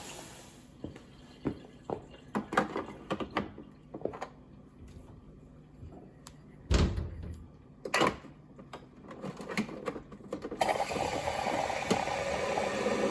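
Plastic parts of a small espresso machine clicking and knocking as it is handled for cleaning, with one heavy thump about seven seconds in. Near the end a steady rushing hiss starts up, in keeping with water being run through the machine to flush out warm milk.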